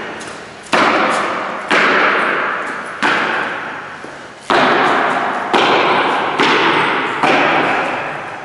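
A series of seven sharp thuds at roughly one-second intervals, each starting abruptly and fading away over about a second.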